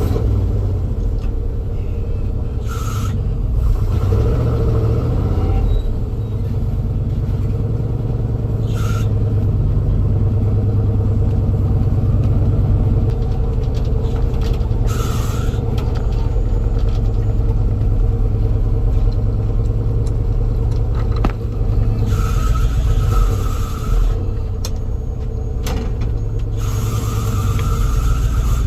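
Car engine idling steadily with a low rumble while it warms up after a cold start. Short rushes of hiss pass over it several times.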